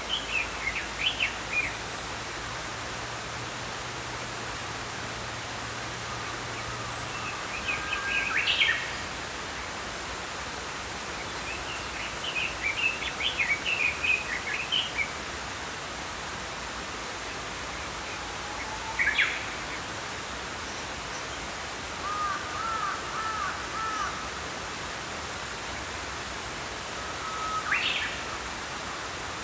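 Small birds chirping in about six short scattered phrases, one a rapid twitter, over the steady rush of a flowing stream.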